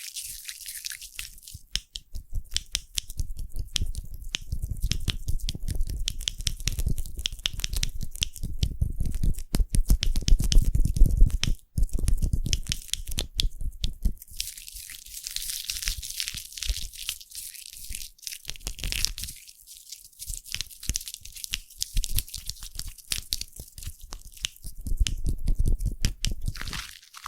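Foam being squished and worked close to the microphone: a dense, fast crackle of bursting bubbles over low, squelching thumps, heaviest in the first half and again near the end.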